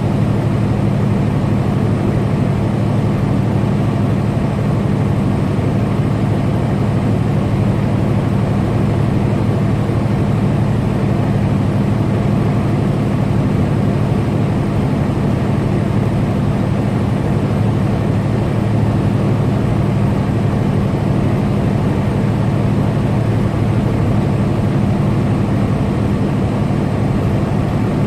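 Semi-truck's diesel engine and road noise while driving, a steady low drone that holds level throughout.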